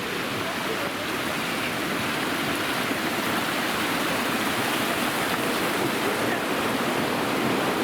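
Falling water of a waterfall rushing steadily, slowly growing a little louder.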